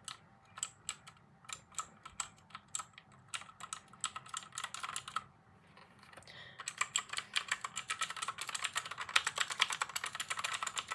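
Typing on a computer keyboard: scattered keystrokes for the first few seconds, a brief pause about halfway, then a fast, dense run of key clicks.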